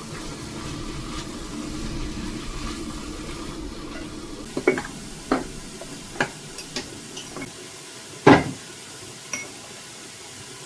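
Kitchen work sounds: a low steady hum for the first few seconds, then a run of clinks and knocks of utensils against pots or dishes, the loudest a heavier knock about eight seconds in.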